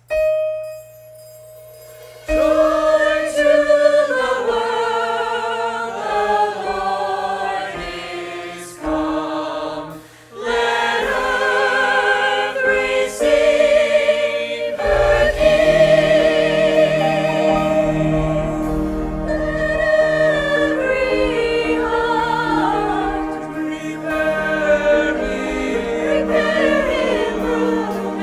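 A choir singing a Christmas number with musical accompaniment. It opens on a single held note, the voices come in about two seconds in, and a fuller accompaniment with a bass line joins about halfway through.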